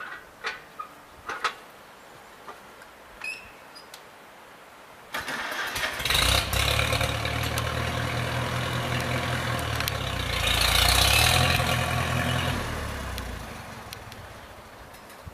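1942 Farmall H tractor's four-cylinder engine being started about five seconds in and then running, growing louder around the middle before it tails off near the end. A few light knocks come before the start.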